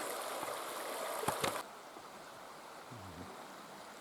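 Steady rushing noise like running water, with a couple of light clicks, that cuts off suddenly about a second and a half in, leaving quiet outdoor ambience.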